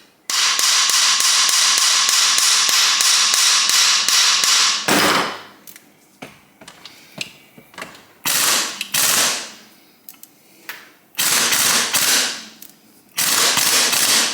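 Power impact wrench hammering in rapid bursts on a seized, corroded bolt in a motorcycle engine case: one long run of about four and a half seconds, then shorter bursts about 8, 11 and 13 seconds in.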